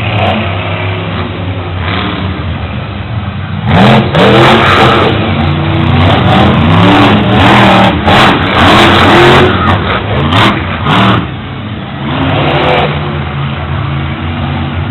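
Monster truck engine running at a steady lower pitch, then revving hard in repeated rising surges from about four seconds in for some seven seconds, before settling back to a lower steady run.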